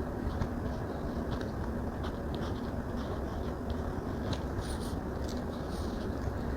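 Stylus tapping and stroking on a tablet's glass screen: irregular light clicks, denser in the second half, over a steady low hum.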